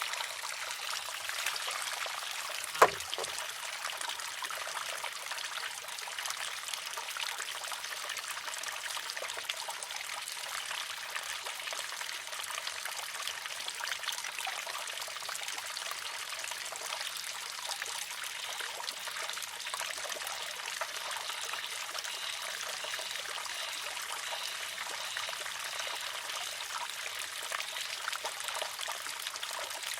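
Water trickling steadily through a wooden, water-driven shishi-odoshi. About three seconds in, its arm tips over and strikes the rock with one sharp clack.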